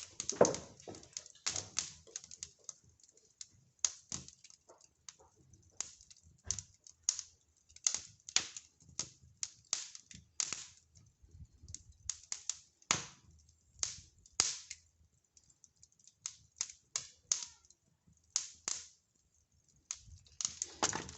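Wood fire crackling in a fireplace: irregular sharp pops and cracks at uneven intervals, some louder than others.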